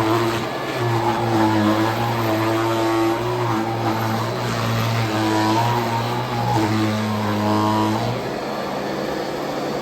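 Royal Model 2008 upright vacuum cleaner running steadily, with a low hum that comes and goes every second or two as it is worked over the floor.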